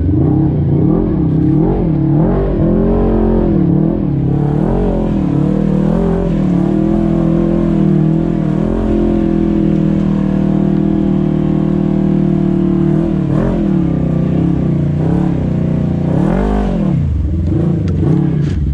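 Side-by-side UTV engine with the throttle worked on and off, the revs rising and falling about once a second. The engine holds a steady speed for a few seconds in the middle, then gives several more quick revs near the end.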